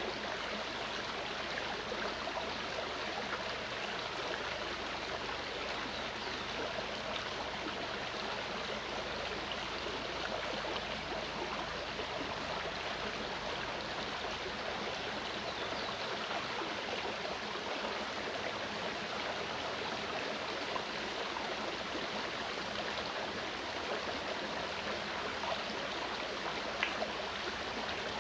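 Mountain stream rushing and gurgling over rocks, a steady, even flow of water.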